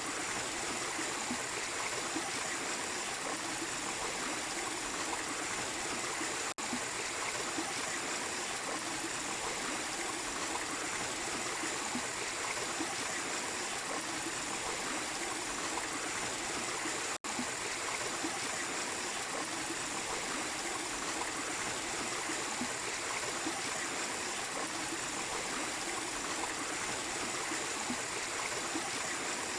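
Small waterfall splashing and running steadily, a continuous rush of water.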